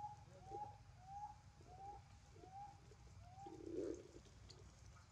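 A bird calling faintly: about six short whistled notes, each rising and falling, evenly spaced at roughly one and a half a second, stopping about three and a half seconds in. A short muffled thump follows just before the four-second mark.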